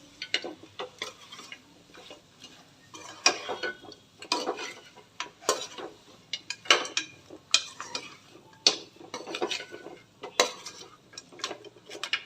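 A spoon stirring spiced meat in a cooking pan, scraping and clinking against the pan in irregular strokes about once a second.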